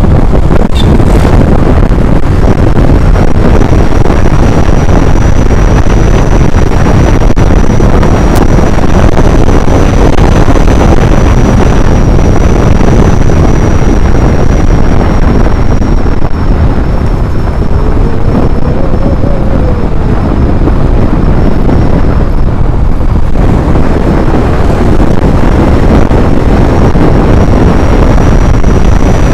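Loud wind buffeting the microphone during a ride on a moving vehicle, a steady rushing roar heaviest in the low end. A faint high steady whine runs through most of it.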